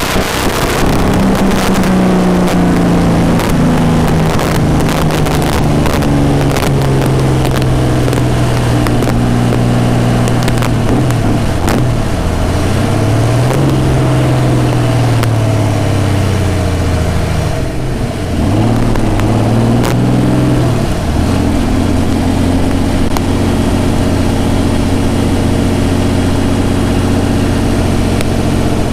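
Shelby AC Cobra's 1000 hp V12 marine racing engine running under way, its pitch dropping and rising with speed several times before holding steady for the last few seconds.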